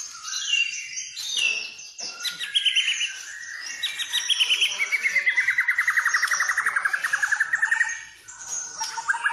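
White-rumped shama (murai batu) singing a varied song of quick whistled phrases, then a long fast trill of rapidly repeated notes lasting about four seconds that dips in pitch and rises again.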